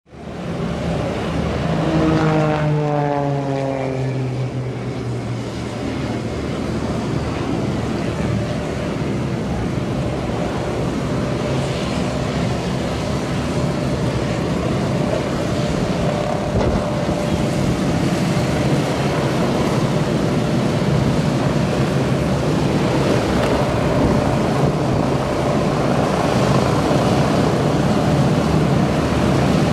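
Propeller airplane flying past, its engine note falling in pitch as it passes about two seconds in, then a steady, loud drone of aircraft engine noise.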